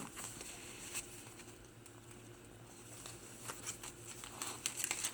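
Faint rustling and a few soft clicks of paper pages being handled and turned in a handmade journal, growing a little busier near the end.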